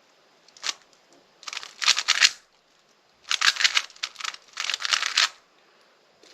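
Rubik's cube being turned by hand in quick bursts of clicking layer turns, four runs of rapid clacks with short pauses between.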